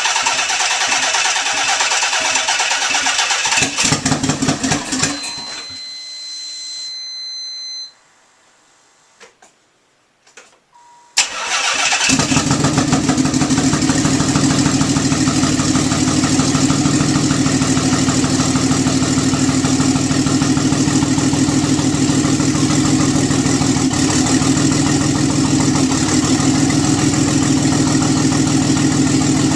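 Nissan 300ZX Twin Turbo's VG30DETT 3.0 litre twin-turbo V6 cranked by the starter for several seconds without catching, with a steady high-pitched tone over part of it. After a short pause it is cranked again, fires about eleven seconds in and settles into a steady idle. This is the engine's first start after being pulled and resealed.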